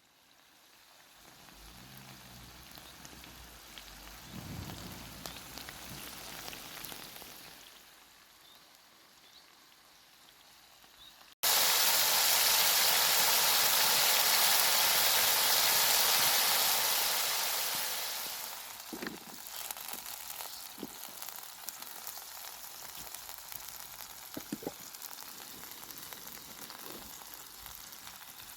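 Food sizzling in a hot pan: a soft sizzle builds over the first few seconds, then a much louder sizzle starts suddenly about eleven seconds in and settles after several seconds into a steady fry with an occasional pop.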